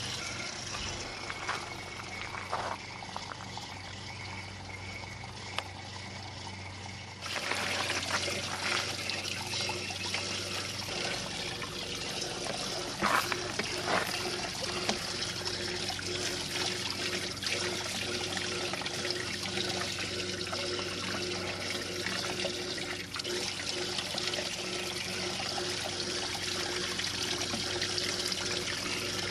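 Cleaning solvent trickling and pouring as a small electric solvent pump recirculates it through a Sea-Doo RXT engine to flush out debris, with a steady low hum underneath. About seven seconds in the flow gets louder.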